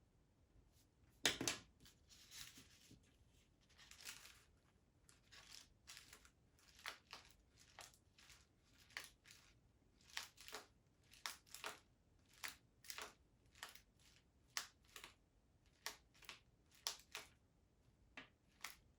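Short, faint scratchy strokes of a drawing tool tracing lines on paper laid over graphite transfer paper, coming about one or two a second, with a louder paper rustle about a second in.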